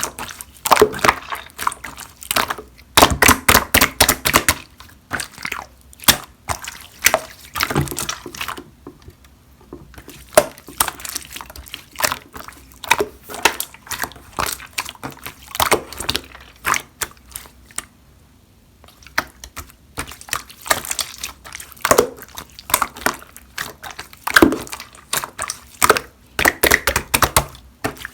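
Clear slime being squeezed and worked by hand, making runs of wet clicks, pops and crackles that pause briefly about nine seconds in and again about eighteen seconds in.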